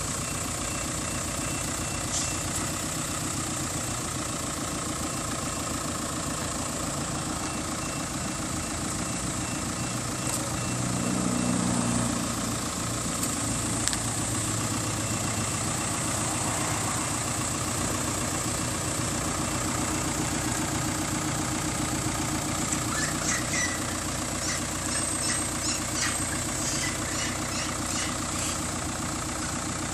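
Car engine idling steadily, growing a little louder for a few seconds about ten seconds in, with a few light clicks near the end.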